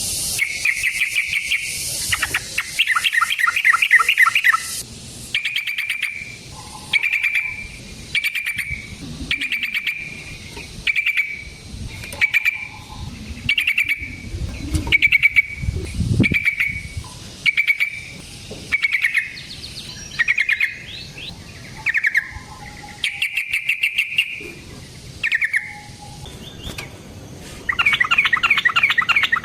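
Yellow-vented bulbul (trucukan) singing: quick rattling, bubbling phrases at first, then a long run of short, separate, fairly even notes about once a second, and another fast rattling phrase near the end.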